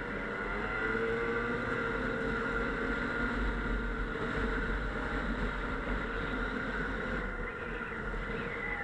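Snowmobile engine running under way, its pitch shifting over the first couple of seconds, then holding steady.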